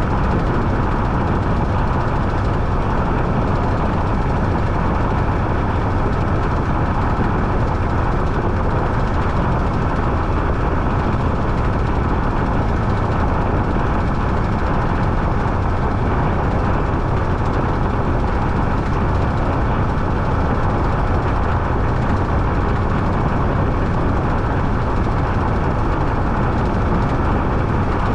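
Washing machine running with a loud, steady, unbroken noise.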